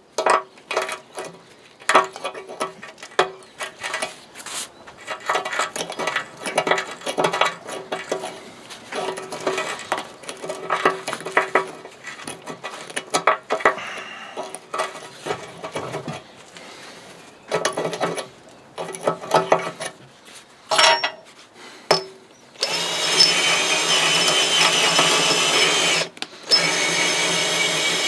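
Irregular metal-on-metal clicking and scraping of tool work. Near the end a power drill runs steadily twice, for about three seconds and then about two, and this is the loudest part.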